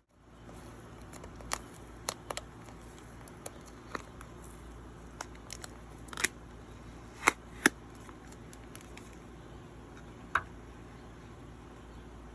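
A handful of short, sharp clicks and taps at irregular intervals, the loudest a pair about seven and a half seconds in, over steady low background hum.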